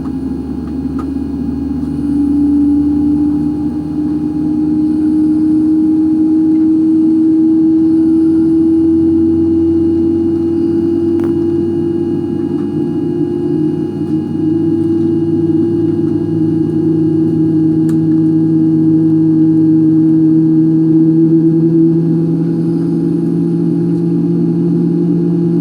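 Airliner's jet engines heard from inside the cabin: a loud, steady tonal hum over a low rumble. The hum steps up about two seconds in, then rises slowly in pitch as the engines spool up.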